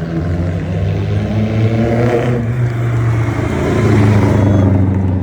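Vintage car engine running close by. It revs up to about two seconds in, drops off suddenly, then swells again near the end.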